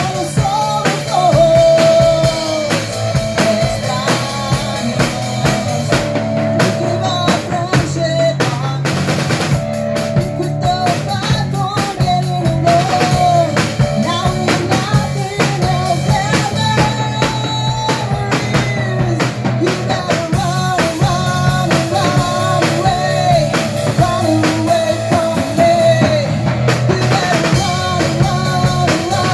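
Rock band playing live, with a drum kit keeping a steady beat on snare and bass drum under a wavering melodic line.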